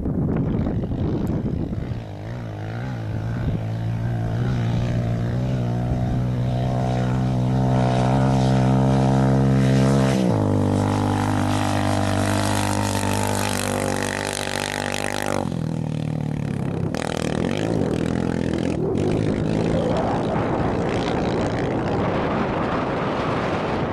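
A rally race vehicle's engine at high revs, growing louder and then dropping in pitch about ten seconds in as it passes, before fading into wind noise on the microphone.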